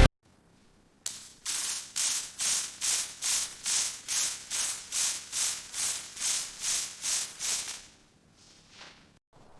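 A rhythmic hissing, scraping noise: about sixteen even strokes, roughly two a second, that stop about eight seconds in, with one faint stroke after.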